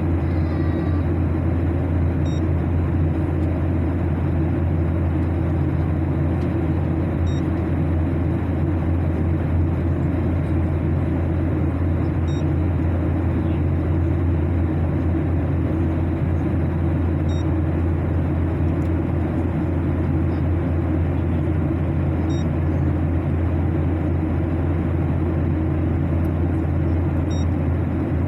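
Steady airliner cabin noise: a constant low rumble of engines and airflow that does not change. A faint, short, high chirp repeats about every five seconds.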